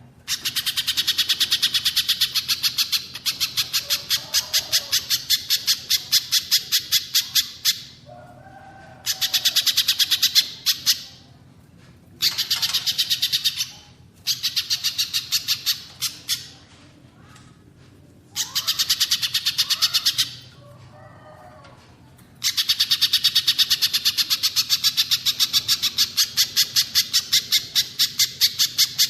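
Recorded songs of a pijantung pisang (spiderhunter) and a cililin bird: runs of rapid, evenly repeated high chattering notes, about eight a second, in phrases of a few seconds broken by short pauses, with softer lower calls in the gaps.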